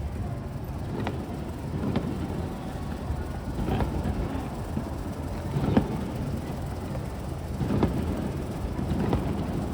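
Aerial fireworks shells bursting in a continuous barrage: a steady rumble punctuated by a boom every second or two, the loudest just before the middle.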